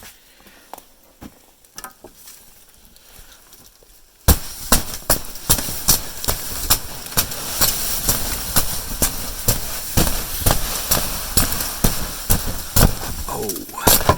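A few soft crunching steps, then, a little over four seconds in, a loud crackling and rustling of an old, cold, brittle plastic tarp being struck to knock the snow off it, with sharp knocks about twice a second. The tarp is cracking as it is hit.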